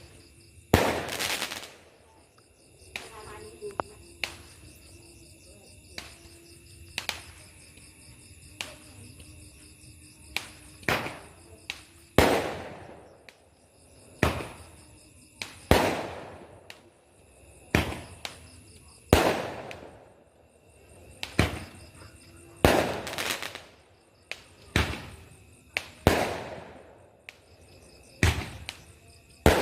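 Fireworks going off one after another: sharp bangs, each trailing off in a rumble. There are smaller cracks at first, then louder bangs about every one and a half to two seconds through the second half.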